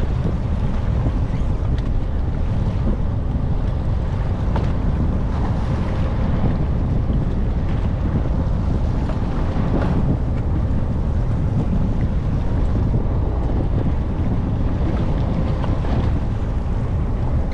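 Wind buffeting the microphone over a steady rumble of water and boat noise at sea.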